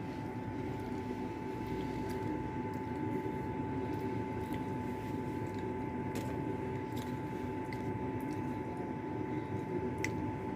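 Steady workshop machine hum with a constant high whine, and a few faint clicks scattered through it.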